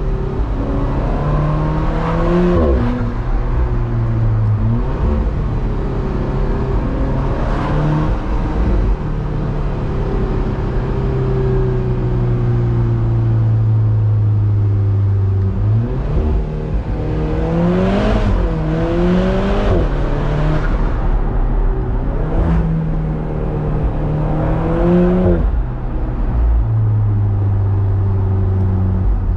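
Alfa Romeo 4C's turbocharged four-cylinder engine heard from inside the cabin while driving slowly: a steady running note that rises and falls back several times as the car accelerates, with a longer even stretch of cruising near the middle and the most frequent rises about two-thirds of the way through.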